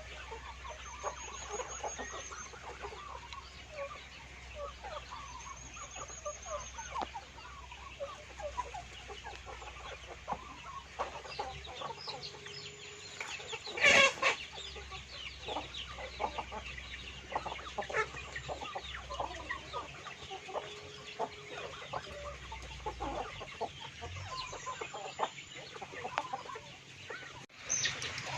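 A flock of chickens clucking, many short calls overlapping, with one loud, short call about halfway through.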